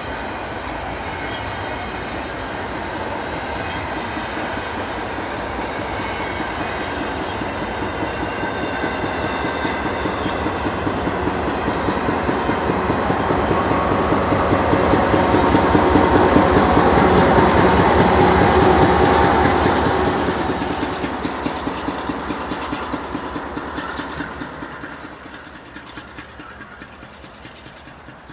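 A train passing by, its wheels clicking rapidly over the rails; it grows louder to a peak a little past the middle, then fades away.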